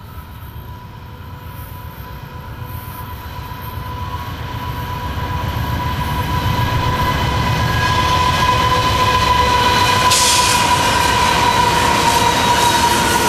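Heavy loaded iron-ore train coming down a steep grade with its brakes on: the diesel locomotives' rumble grows louder as they approach and pass, over a steady high-pitched squeal. About ten seconds in, a hiss of wagon wheels on the rails comes in as the ore cars roll by.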